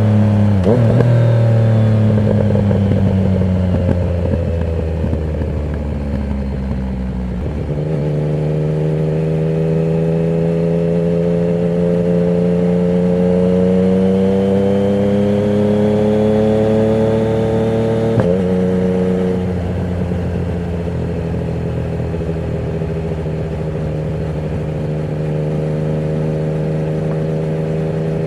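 Yamaha MT-09 inline three-cylinder engine running through a Termignoni exhaust with no dB killer. The revs sink over the first several seconds, a gear change comes about seven seconds in, the revs climb slowly for about ten seconds, another gear change follows, and the engine then holds steady cruising revs.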